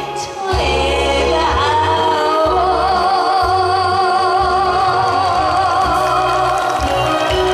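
Live song with band accompaniment and a steady bass beat. A singer holds one long note with wide vibrato from about two seconds in until near the end.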